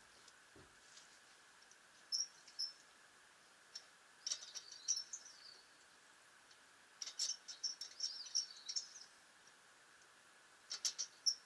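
Small birds chirping in short, high twittering bursts, four groups a few seconds apart, over a faint steady hum.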